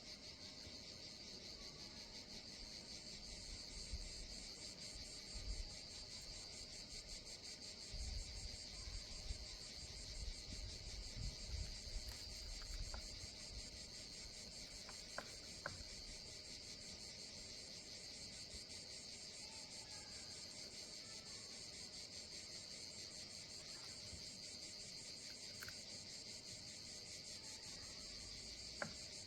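Steady high-pitched chirring of a summer insect chorus, running without a break. A few low bumps and rumbles come and go in the middle, and there are faint clicks.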